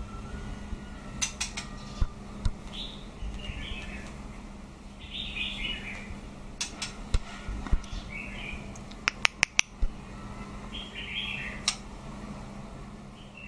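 Caged white-rumped shama giving short chirping calls every two or three seconds, mixed with sharp clicks and taps, including a quick run of clicks about nine seconds in, over a steady low hum.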